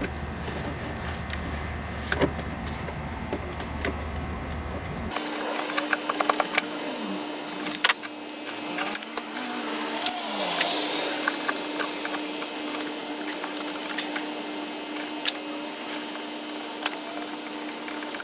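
Scattered clicks and knocks of hand tools and parts being handled in a car's engine bay, over a steady hum that changes abruptly about five seconds in.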